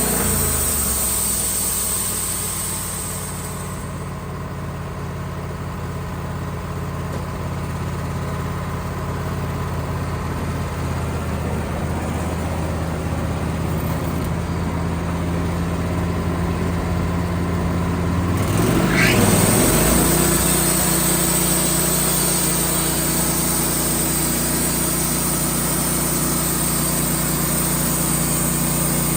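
Band sawmill's engine running steadily, with a high hiss over it at the start and from about two-thirds of the way through. Its note dips and picks back up at that point, about 19 seconds in.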